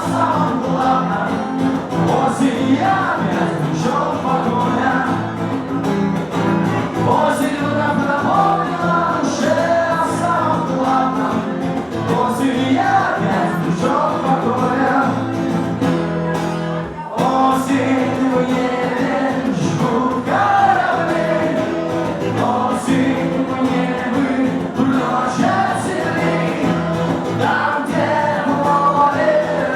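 Live concert music: a band playing with singing. There is a brief drop in the sound about seventeen seconds in.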